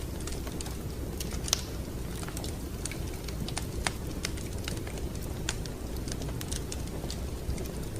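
Wood fire crackling in a fireplace: irregular sharp pops and snaps over a steady low rumble of flames, with two louder pops, one about a second and a half in and one near four seconds.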